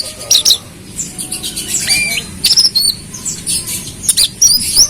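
Brown-throated sunbird (kolibri kelapa) singing: a rapid, irregular series of short, high chirps mixed with quick rising and falling whistled notes.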